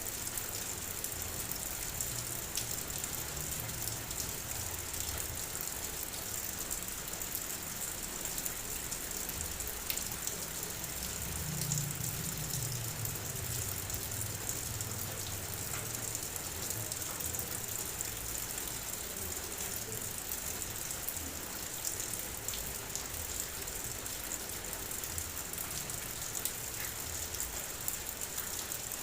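Steady heavy rain: a dense, even hiss of rainfall with many individual drops ticking through it. A soft low rumble swells briefly about twelve seconds in.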